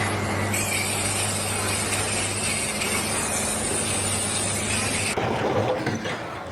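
Machinery running with a steady low hum under dense mechanical noise; the sound changes abruptly about five seconds in.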